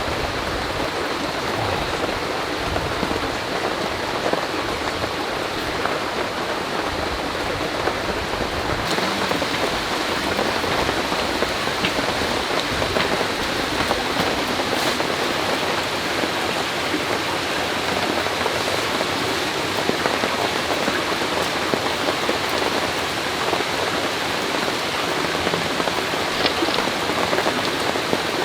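Heavy rain falling steadily, a dense even hiss of drops that gets a little louder about nine seconds in.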